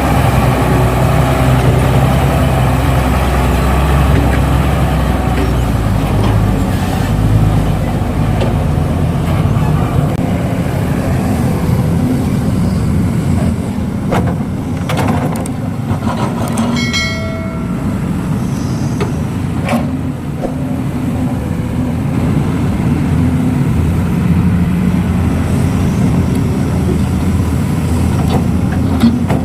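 Diesel engines of a hydraulic excavator and a dump truck running steadily under load; the deep engine rumble eases about seven seconds in. A brief high-pitched tone sounds a little past halfway through.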